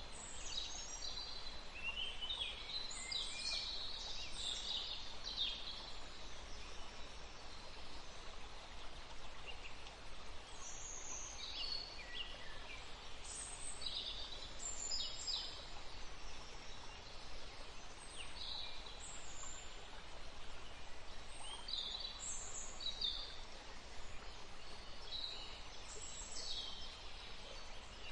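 Woodland stream running steadily, with small birds calling in short, high chirps and trills scattered throughout.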